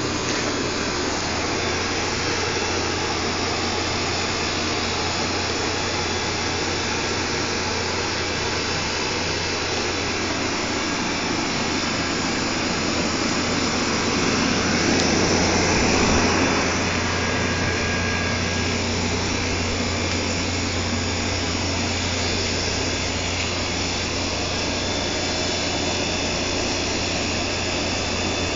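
Steady mechanical running noise with a constant low hum, swelling louder for a few seconds about halfway through.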